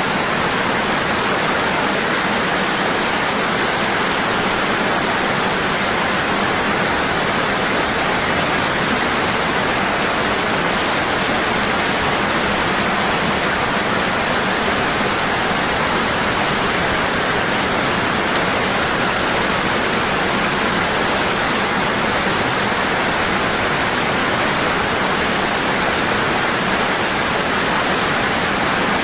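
Waterfall: water falling heavily and constantly, a steady, even rushing with no pauses.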